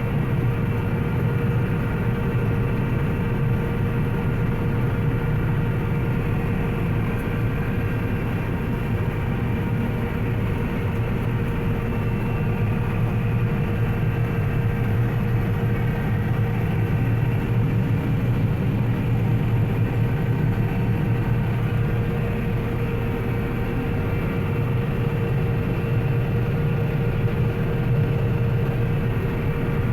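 Combine harvester running steadily while cutting wheat: a constant low engine drone with a steady whine above it.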